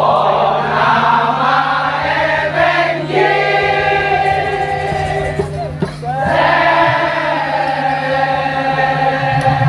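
Madurese tongtong (daul) music: a melody of long held notes that slide into pitch, in three phrases with a choir-like sound, over a steady low drone.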